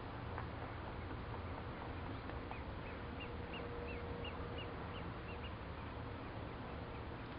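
A bird gives a run of about ten short, high calls, about three a second, starting a couple of seconds in, over a steady low background hiss and hum.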